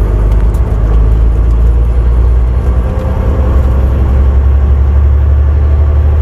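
Semi truck's diesel engine and road noise heard from inside the cab while cruising on the highway: a steady low drone with tyre hum.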